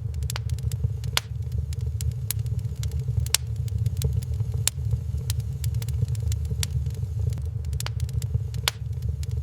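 Wood fire crackling in a fireplace: irregular sharp pops and snaps, a few a second, over a steady low rumble.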